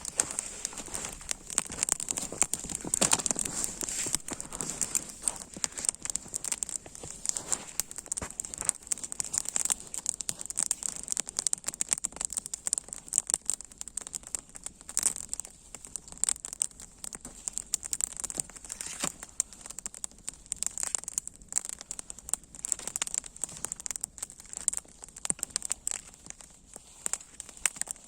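Dense, irregular crackling and crinkling with no steady rhythm.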